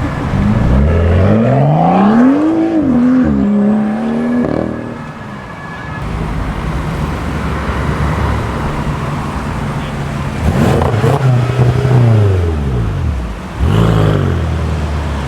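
Modified BMW M cars accelerating hard, the engine revs climbing steeply for about two seconds, then levelling off and fading as the car pulls away. About ten seconds in, another car's engine rises and falls with a gear change near the end, over the steady drone of other engines.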